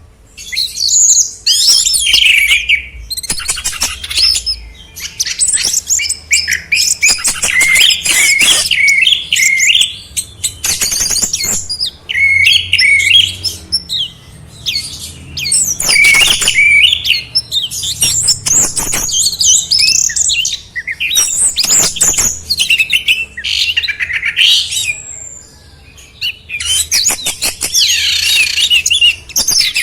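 Songbird singing a fast, varied song of chirps, trills and whistles, in phrases a few seconds long broken by short pauses.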